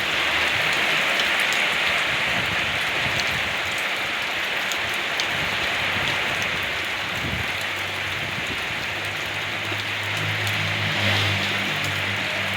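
Steady heavy rain falling on surfaces, an even hiss with scattered drop patter. A low hum joins in about halfway through and lasts to the end.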